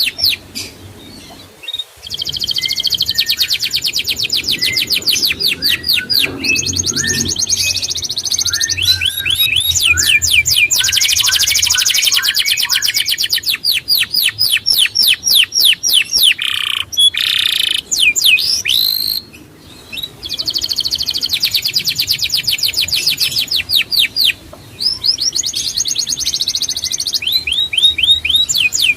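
A small songbird singing long, high-pitched trills of fast repeated notes, phrase after phrase, with short pauses about two seconds in and again around twenty seconds in.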